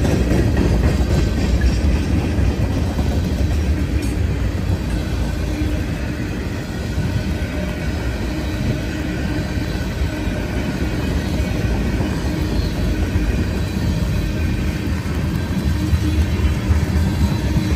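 Freight train of loaded tank cars rolling past close by: a steady low rumble of wheels on rail with a light, continuous clatter.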